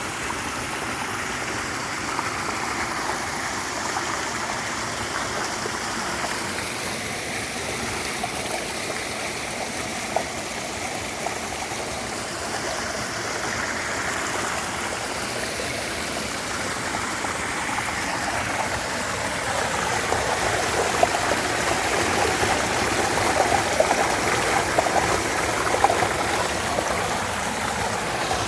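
Mountain stream flowing and babbling steadily. It grows a little louder and splashier about two-thirds of the way in, with small splashes standing out.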